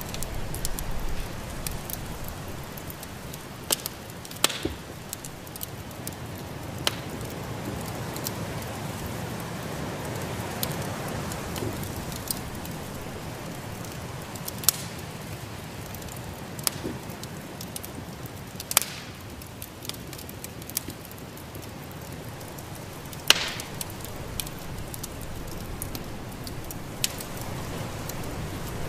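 Wood fire in a fireplace crackling, with sharp pops every few seconds over a steady rushing noise.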